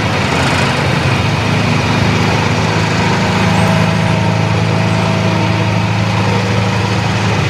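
Excavator-mounted vibratory sheet pile hammer running with the excavator's diesel engine: a loud, steady low mechanical drone that shifts a little higher in pitch about two seconds in.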